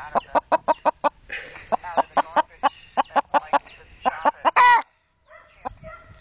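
Hen clucking in a quick run of short clucks, several a second. About four and a half seconds in comes one louder, drawn-out squawk, then a few fainter clucks.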